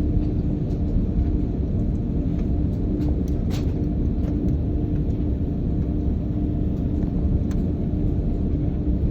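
Steady low rumble of a jet airliner heard from inside the passenger cabin, with a constant hum and a couple of faint clicks.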